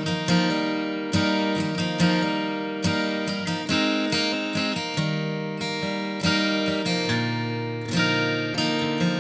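Background music: acoustic guitar strummed and plucked in a steady rhythm, chords ringing out between strokes.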